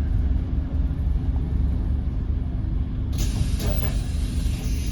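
Scania N270UD OmniCity bus heard from inside, its engine running with a steady low rumble; about three seconds in, a sudden hiss of released compressed air begins from the bus's air system.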